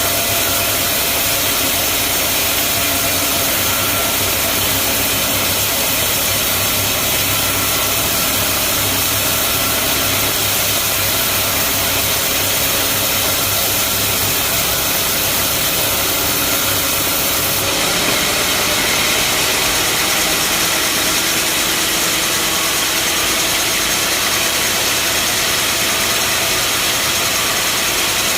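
Bandsaw sawmill running with a steady loud machine noise and hiss, its sound shifting abruptly about two-thirds of the way through.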